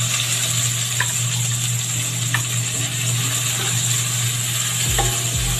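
Sliced onion, garlic and ginger sizzling in hot oil in a wok as a spatula stirs them, with a couple of light taps of the spatula on the pan. A steady low hum runs underneath.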